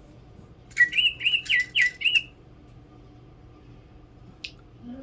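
Electronic DigiBird toy bird chirping: a quick run of about five rising chirps about a second in, lasting a second and a half, with a faint click near the end.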